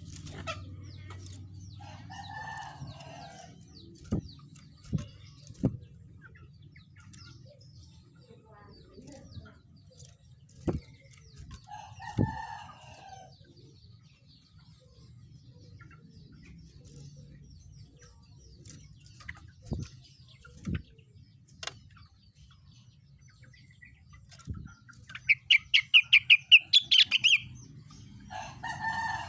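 Caged rengganis songbird, with sharp knocks and clicks from its cage now and then and a loud, fast trill of about ten high notes near the end. A lower call, taken for a rooster crowing, comes three times: near the start, about halfway through, and at the very end.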